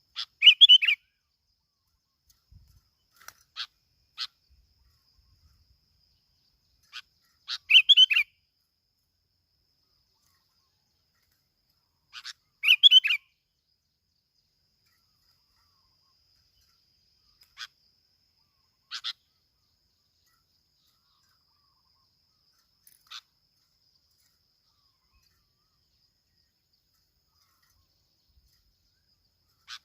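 Bulbul calling: three short bright warbled phrases a few seconds apart, with single sharp chip notes scattered between them.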